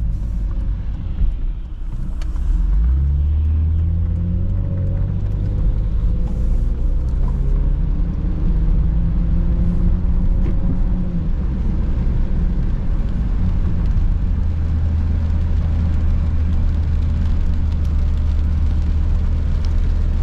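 Car driving, heard from inside: a steady deep rumble of engine and road noise. The engine note climbs in pitch between about three and eleven seconds in as the car accelerates.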